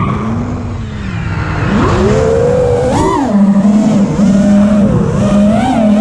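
FPV freestyle quadcopter's four brushless motors (T-Motor F60 2500kv on five-inch props) whining, the pitch jumping with the throttle: a steady drone, then a sharp rising punch that peaks about three seconds in and falls back, with a rush of air over it.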